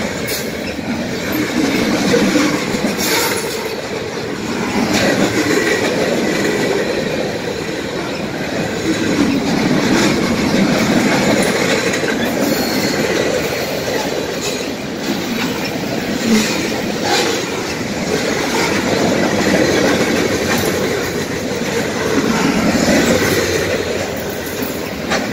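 Freight train of tank cars and covered hopper cars rolling past close by: a steady rumble of steel wheels on the rails, with irregular clicks as the wheels cross rail joints.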